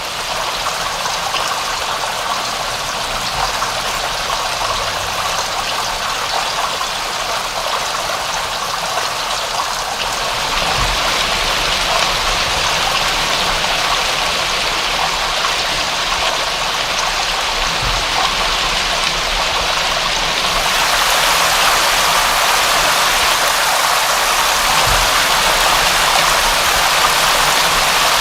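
Steady, dense rain hiss with no distinct drops standing out. It grows louder and brighter about a third of the way in, and again about two-thirds of the way in.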